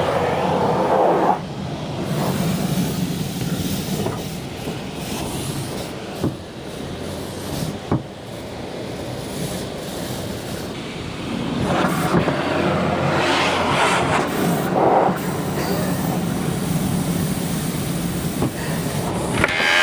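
Car wash running: a steady low machine hum under rushing water spray, the spray swelling louder for a few seconds in the middle.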